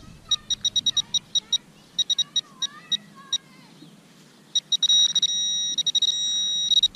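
Metal-detecting pinpointer (Teknetics Tek-Point) beeping: runs of quick, short, high-pitched beeps, then from about five seconds in a steady continuous tone as it closes in on a coin buried in the soil.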